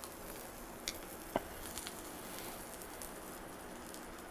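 Taquito frying in hot oil on a flat-top griddle: a faint, steady sizzle, with two light clicks about a second in.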